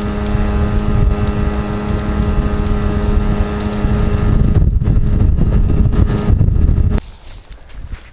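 Motorboat engine running at a steady pitch, with heavy wind rumble on the microphone. About halfway through, the engine hum drops away, leaving the wind rumble, which cuts off abruptly near the end.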